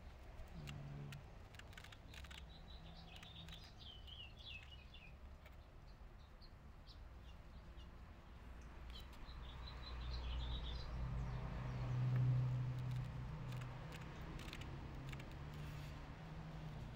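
Small birds chirping and twittering in two short runs of quick, warbling calls, over a low steady hum that swells to its loudest about twelve seconds in, with a few faint clicks.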